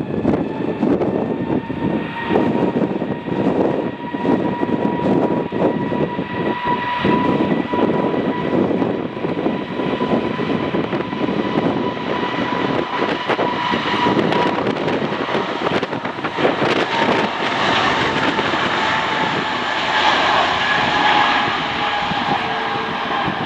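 Airliner engines running with a steady whine that sags slightly in pitch toward the end, heard through loud, gusting wind buffeting on the microphone.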